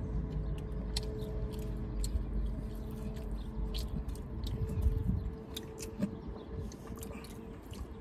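Close chewing and mouth sounds of someone eating, with many small, irregular clicks, over a steady low hum in a car cabin.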